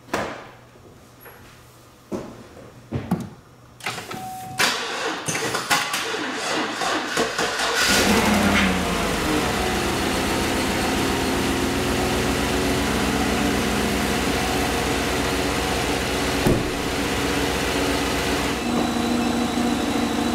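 A 2016 Chevrolet Tahoe's V8 cranked slowly by its starter, powered by a 600A lithium jump pack in place of a dead battery. After a few clicks, the starter spins the engine for about four seconds, speeding up until it catches. The revs flare and then settle into a steady idle.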